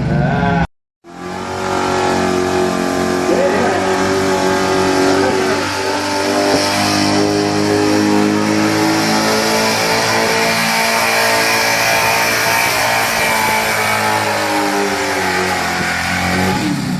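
Stock pickup truck engine running hard at high revs through a truck pull, its pitch held fairly steady as it drags the pulling sled. The sound cuts out briefly about a second in, then comes back at full strength.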